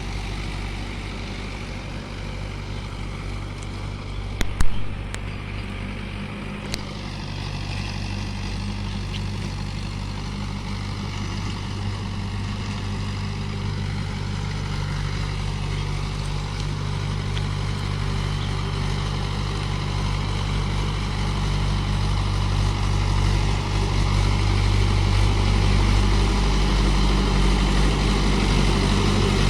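Mahindra 575 DI XP Plus tractor's four-cylinder diesel engine running steadily under way with a rotavator, growing gradually louder. A couple of sharp knocks stand out about four to five seconds in.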